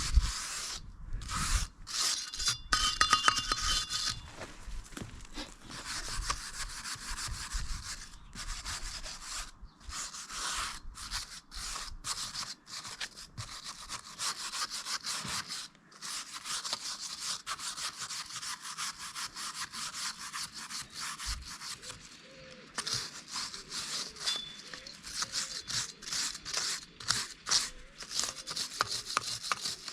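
Steel wire brush scrubbing rust off a steel wheel rim in quick, repeated back-and-forth strokes with short pauses between runs.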